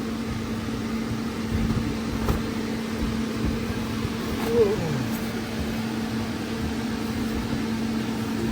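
Steady hum of an inflatable bounce house's electric blower fan, with a few dull thumps of children bouncing on the inflated floor.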